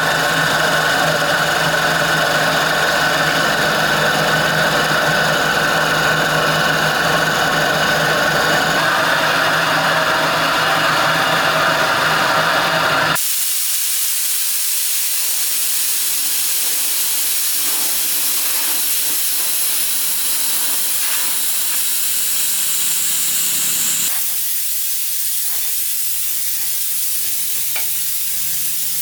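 Air compressor running with a steady hum of many tones. About thirteen seconds in, this cuts off abruptly and gives way to a steady high hiss of compressed air spraying, which eases slightly near the end.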